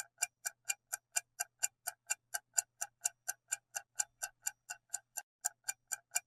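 Countdown timer tick sound effect: fast, even clock-like ticks, about four a second, marking the time left to answer a quiz question.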